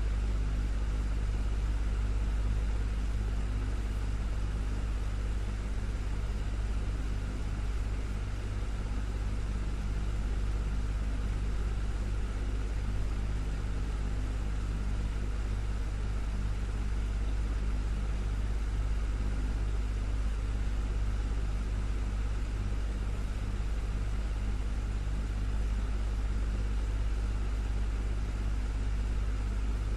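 Desktop fan running steadily: a low, even motor hum under a constant whoosh of moving air, unchanging throughout.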